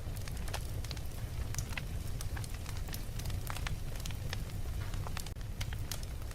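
A fire crackling, with sharp irregular pops and snaps over a steady low rumble.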